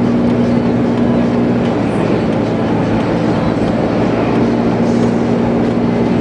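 Steady road and engine noise inside a moving car's cabin, with a low steady hum that fades out about two seconds in and comes back near the end.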